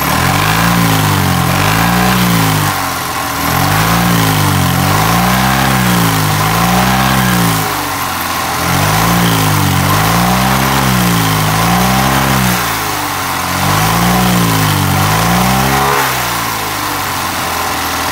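Fiat 126 BIS water-cooled flat-twin engine being blipped over and over, its pitch rising and falling back about once a second. It is held back by the carburettor top cover, which stops the engine getting enough air even at full throttle.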